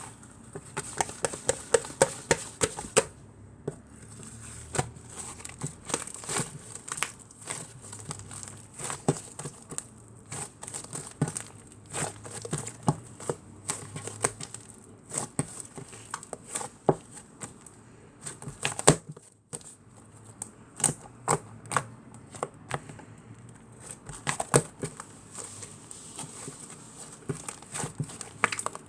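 Close-up crackling and irregular sharp clicks from grapes being handled, a dense run of small snaps throughout.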